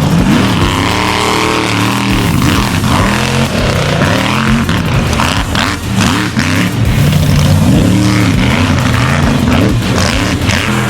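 Monster truck engine revving hard and easing off again and again, its pitch rising and falling every second or two.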